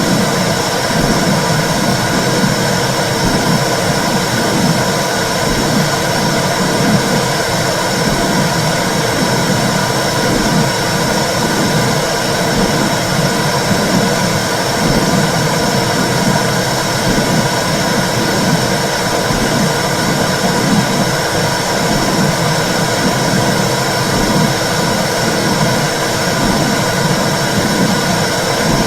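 Womb sound for soothing babies: a steady whooshing noise with a low, rhythmic pulsing beneath it, as of blood flow heard inside the uterus.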